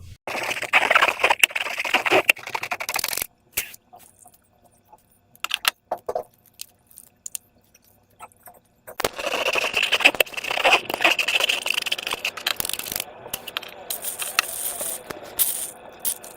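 Slime being worked by hand, giving sticky crackling and scraping in two spells with a quiet stretch of scattered clicks between them.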